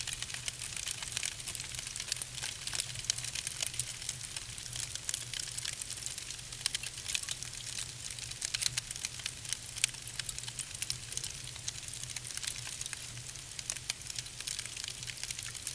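Wood fire in a fireplace crackling: dense, irregular sharp pops and snaps over a steady hiss, with a low steady hum underneath.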